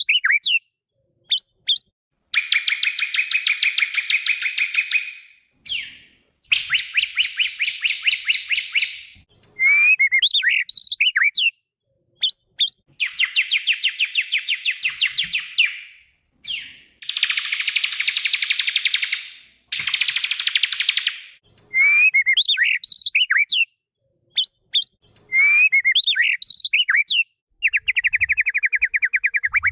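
White-rumped shama (murai batu) singing: short, varied whistled phrases alternate with long buzzy trills of two to three seconds each. A trill falling in pitch begins near the end.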